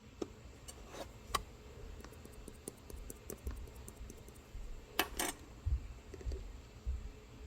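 Light clinks and taps of dishes, glassware and utensils being handled, with a sharper double click about five seconds in.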